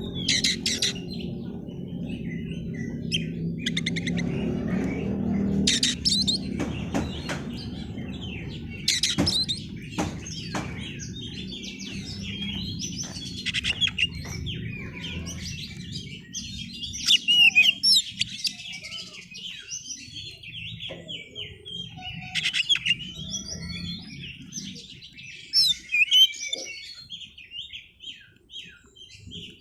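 Oriental magpie-robin (kacer) singing a fast, varied run of chirps, warbles and a few harsh notes, in full song. A low steady hum underneath fades out about halfway through.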